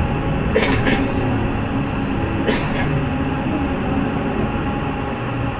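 Interior of a city bus on the move: steady engine hum and road noise through the cabin, with a few brief sharp sounds about half a second in and again around two and a half seconds in.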